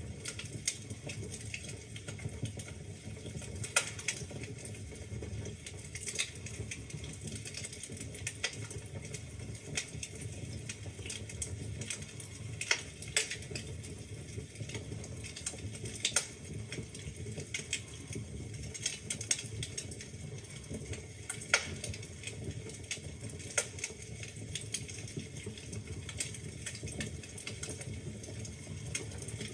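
Wood fire burning in a fireplace: a steady low rumble of the flames with frequent sharp crackles and pops from the burning logs, a few louder snaps scattered through.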